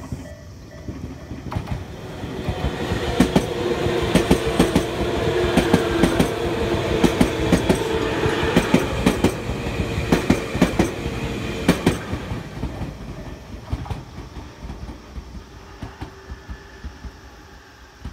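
A Tobu 100 series 'Spacia' electric limited-express train passes at speed: a rumble that builds over a few seconds, with rapid sharp clicking of the wheels over rail joints and a steady drone underneath. It fades away after about twelve seconds as the train recedes.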